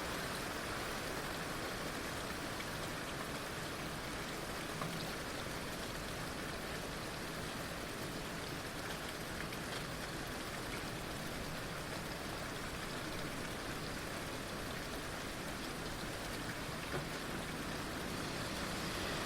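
Heavy rain falling steadily, an even hiss of rain on surfaces with a couple of faint single drop taps.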